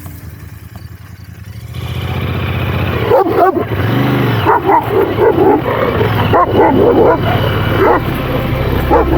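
Dogs barking aggressively in repeated bursts, from about three seconds in, over the steady running of a Royal Enfield Interceptor 650's parallel-twin engine, which comes up about two seconds in; the dogs are chasing the motorcycle.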